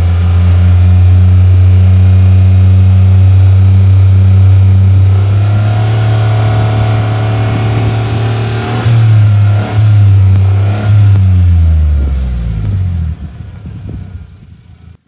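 Exhaust of a Suzuki Every kei van's 660 cc three-cylinder engine running at a steady low speed, revs raised slightly a little past the middle with a couple of brief throttle blips, then winding down and stopping near the end as the engine is switched off.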